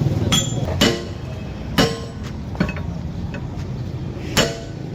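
Hammer blows on metal during a backhoe tyre repair: about five unevenly spaced strikes, each with a brief metallic ring, over a steady low rumble.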